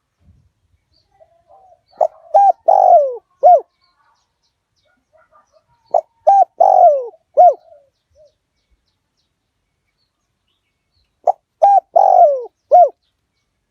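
Spotted dove cooing: three song phrases about four to five seconds apart. Each is a couple of short coos, then a longer coo falling in pitch, then a short final coo.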